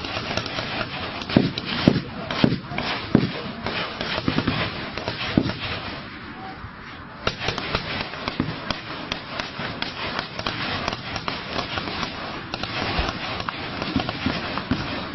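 Heavy gunfire: many rapid shots cracking and overlapping in a dense, irregular barrage, easing off briefly about six seconds in and then picking up again.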